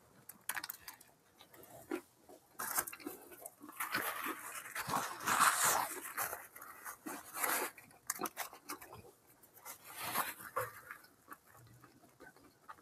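Close-up eating sounds: chewing and mouth noises from a bite of crispy chicken sandwich, coming in irregular bursts, with a paper napkin and sandwich wrapper rustling.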